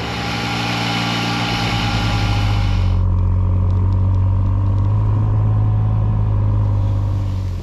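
Vehicle engine running steadily close by, with a low, even hum; a high hiss over it cuts off suddenly about three seconds in.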